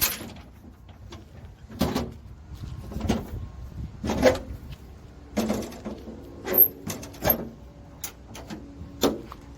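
A string of sharp metal clanks and latch knocks, about seven spread over several seconds, from the hinged gates of a mini truck's cargo bed being handled and latched.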